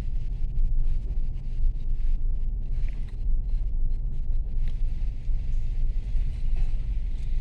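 Car moving off slowly in first gear, a steady low engine and road rumble.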